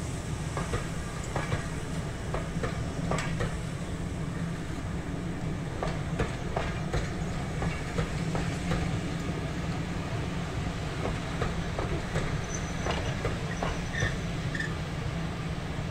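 Railway passenger coaches rolling past, their wheels clicking over rail joints in an uneven run of clacks over a steady low rumble.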